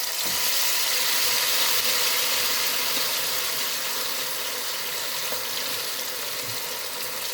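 Plantain slices frying in hot oil, a steady sizzle that eases a little towards the end.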